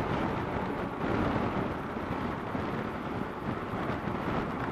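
Wind buffeting the microphone while riding a Kawasaki KLR650 motorcycle, with the bike's single-cylinder engine running underneath as a steady noise.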